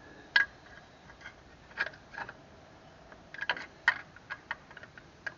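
Hand tools and parts clicking and knocking during work on a tractor's alternator and belt: about a dozen sharp clicks at irregular intervals, two louder ones about half a second in and near four seconds in.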